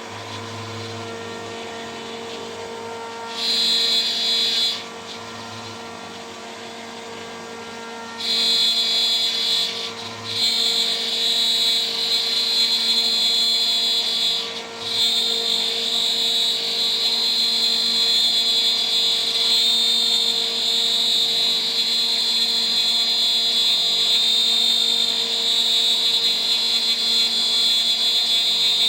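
CNC spindle running steadily while a 3 mm three-flute end mill cuts: a short cut about three seconds in, then nearly continuous cutting from about eight seconds in, broken briefly twice.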